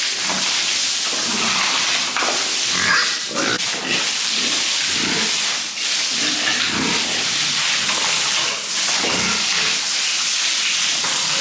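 Pigs grunting and squealing at irregular intervals over a steady hiss of water spraying from a hose as they are washed down.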